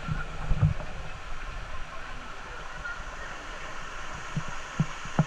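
Steady rush of flowing river water, with a few low thumps on the microphone in the first second.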